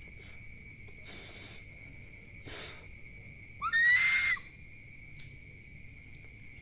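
An owl giving a harsh screech of just under a second, about halfway through, after two shorter hissing calls. Insects trill steadily throughout.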